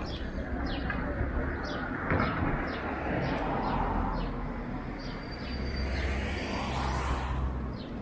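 Small birds chirping in quick, repeated short notes, about two a second, over a steady low rumble of outdoor background noise. A brief rising swish comes near the end.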